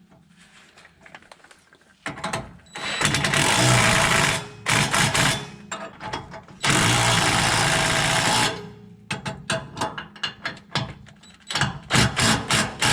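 Power wrench tightening the bolts of a steering box brace, running in two bursts of about two seconds each, followed by a run of sharp clicks and knocks of tool on metal.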